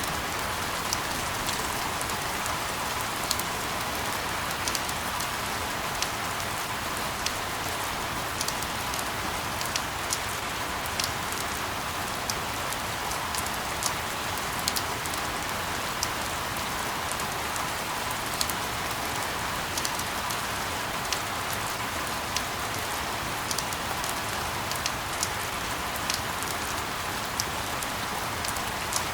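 Steady rain, an even hiss with scattered, irregular sharp drop ticks over it.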